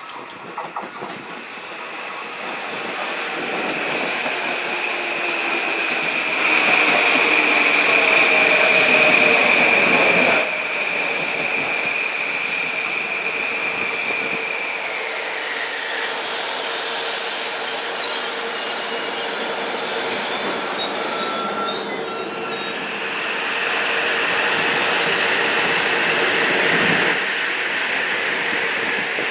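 Metro-North M8 electric multiple-unit train pulling in past the platform: steady wheel and car noise over the rail, with a high, steady wheel squeal that holds for long stretches. A falling motor whine runs under it as the train slows.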